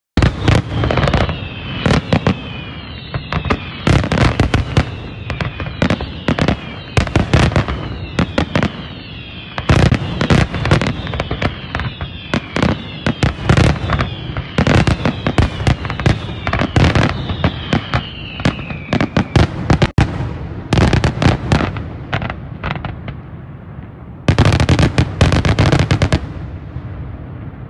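Fireworks display: rapid volleys of bangs and crackles, with whistling tones that fall in pitch through the first two-thirds. There is a brief lull about twenty seconds in, then a dense final volley near the end.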